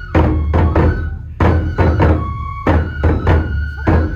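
Kenbai festival music: taiko drum strokes in an uneven repeating rhythm, with a bamboo flute holding high notes that shift in pitch over them.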